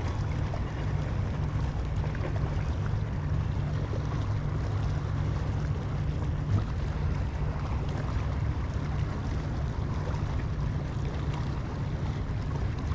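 Steady wind rumble on the microphone over a faint wash of open water around a small boat, with one light knock about halfway through.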